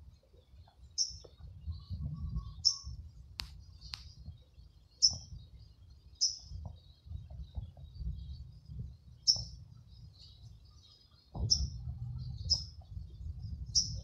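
A small bird chirping repeatedly, short high chirps about once every second or so. There are two sharp clicks about three and a half seconds in and a low rumble underneath.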